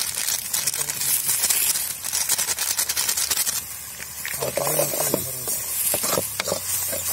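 Chicken and masala frying in an iron kadai, sizzling, while a metal spatula stirs and scrapes against the pan. The sizzle is densest for the first half, then eases to softer sizzling with separate scrapes and clicks.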